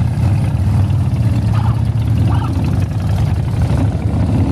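Motorcycle engines of a long convoy riding past in a continuous stream, a steady low rumble.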